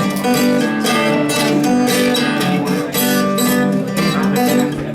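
Acoustic guitar strummed in a steady rhythm, opening a talking-blues song.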